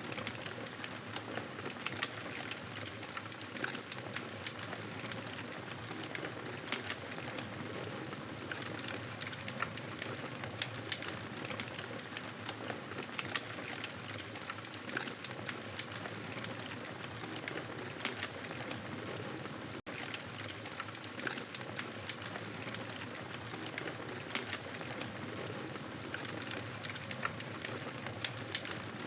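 Campfire burning with a steady hiss and frequent sharp crackles and pops, broken by a split-second dropout about twenty seconds in.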